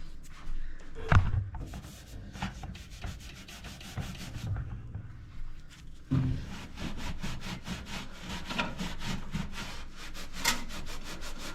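A sponge scrubbing baking soda paste over the grimy surface of a toaster oven in rapid back-and-forth strokes, which grow faster and more even in the second half. There is one louder knock about a second in.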